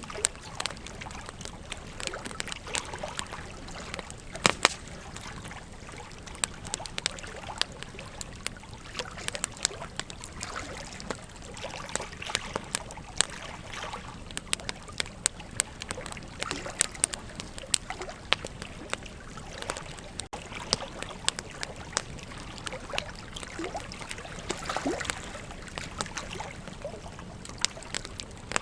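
Wood campfire crackling, with frequent irregular sharp pops over the steady rush of a flowing river.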